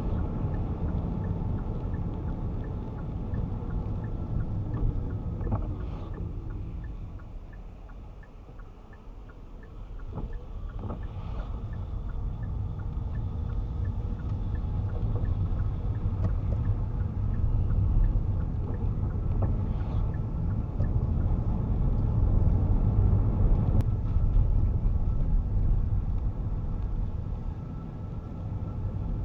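Car engine and road rumble heard from inside the cabin. It eases off about eight seconds in, as the car slows for the roundabout, then builds again as it pulls away. A faint, regular indicator ticking runs through roughly the first half.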